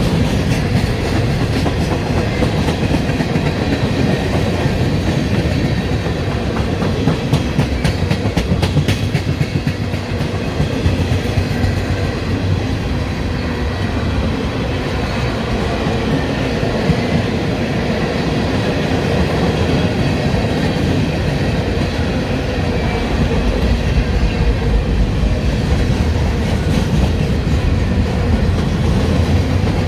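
Freight train cars rolling past at close range: a steady rumble of steel wheels on rail, with a run of sharp clicks as wheels cross rail joints about a quarter of the way in.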